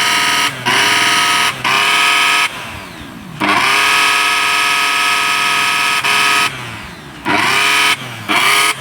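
Mixer grinder's motor running in short bursts as it is switched on and off repeatedly, a loud high-pitched whine. The pitch rises as the motor spins up each time and slides down as it winds down, with the longest run lasting about three seconds in the middle.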